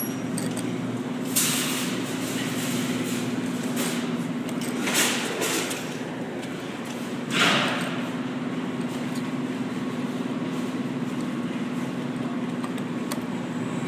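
Claw machine running: a steady mechanical hum while the claw is worked, with three brief louder noises about one and a half, five and seven and a half seconds in, the last the loudest.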